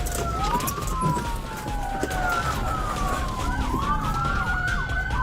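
Police car sirens wailing, several overlapping tones sweeping slowly up and down in pitch, with quicker sweeps from about three and a half seconds in, over a low engine and road rumble.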